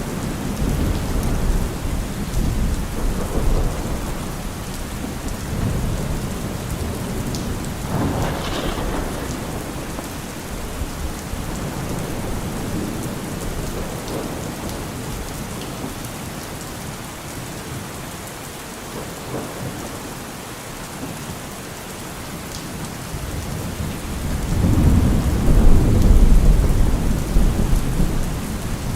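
Heavy rain on a car roof with rolling thunder. The low rumble rises and fades, with a short swell about eight seconds in and the loudest roll of thunder building near the end.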